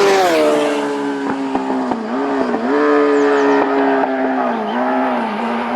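Road-racing motorcycle passing at speed. Its engine note drops sharply as it goes by, then dips and climbs again twice as it pulls away.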